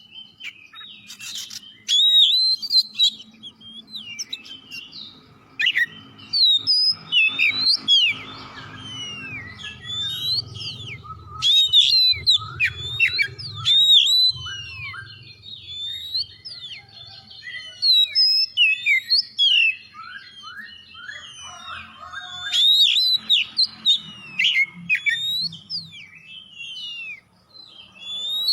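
Oriental magpie-robin (kacer) in full, continuous song: a long, varied run of rapid whistled notes, rising and falling glides and short chirps, with brief pauses between phrases.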